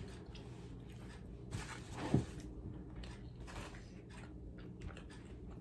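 Mukbang eating sounds: scattered short mouth clicks and chewing of fast food, with a louder rustling burst and a thump about two seconds in.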